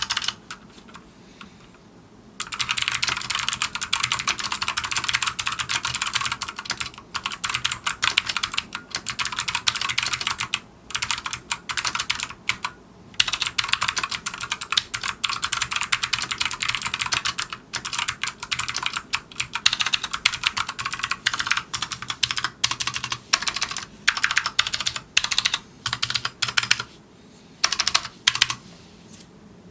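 Fast typing on a Micronics MANIC X50 gaming keyboard, its optical switches and PBT keycaps clacking in dense, rapid runs. There are short pauses about a second in and a few more later.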